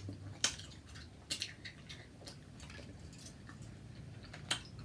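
Close-miked eating sounds: a sparse, irregular scatter of small clicks and crackles from seafood being picked apart and eaten by hand.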